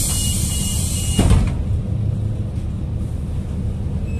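City bus's pneumatic door working: a hiss of compressed air for about a second and a half, ending in a thump, over the steady low rumble of the bus.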